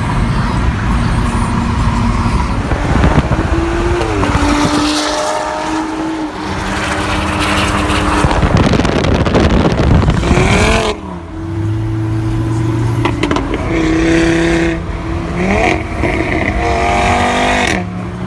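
Car engine accelerating hard, its revs climbing and then dropping back at several gear changes.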